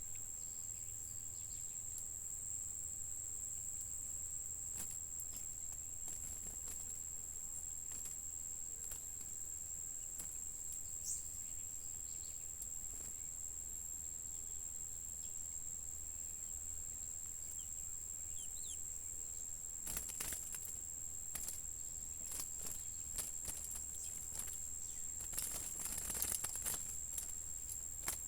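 An insect trilling steadily at a high pitch over a low hum, with scattered faint clicks and taps that grow busier over the last several seconds.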